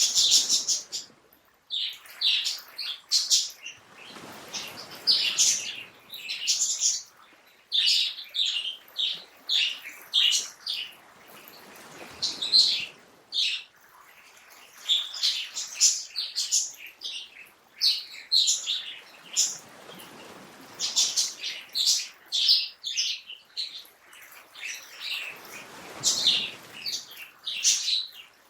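Songbirds chirping and calling continuously, many short high chirps overlapping, with a soft rushing noise that swells and fades every several seconds beneath them.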